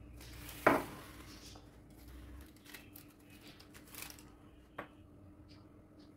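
Kitchen handling noises: one sharp knock a little under a second in, then light clicks and rustles, with a smaller knock near the end, over a faint steady hum.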